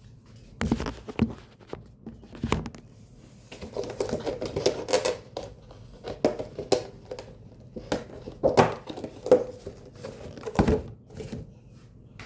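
Irregular knocks, clicks and rustling as things are handled and moved around the room during tidying.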